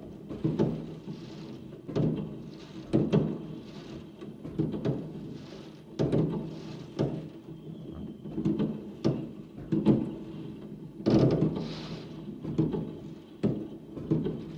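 Fireworks going off in a rapid series of booms, roughly one or two a second, some followed by a crackling hiss.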